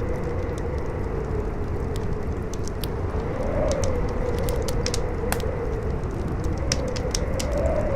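Campfire crackling with scattered sharp pops over a steady low rumble of strong wind. A howling wind note rises and falls every few seconds.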